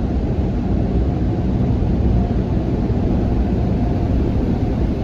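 Car wash air dryer blowers blasting air over the car in the drying stage, heard from inside the car as a steady, loud rushing with a faint hum.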